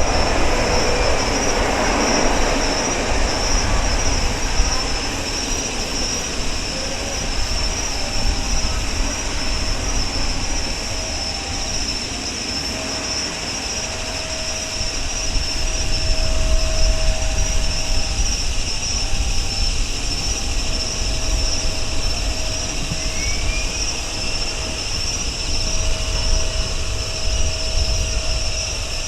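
Boeing 737-800's CFM56-7B jet engines running on approach, a steady rumble with a strong low end. A higher whine rises about three-quarters of the way through.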